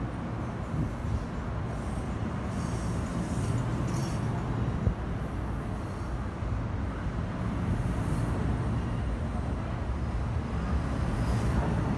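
NJ Transit passenger train moving along the station track: a steady rumble of wheels on rail, with brief high squeaks from the wheels now and then.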